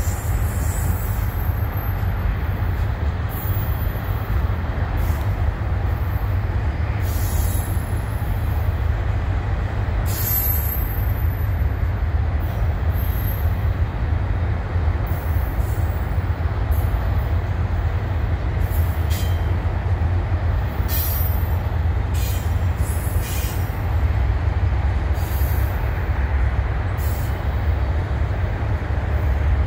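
CN double-stack intermodal container train rolling past: a steady low rumble of the well cars on the rails. Brief high squeals and clicks from the wheels come and go, several of them close together near the middle of the passage.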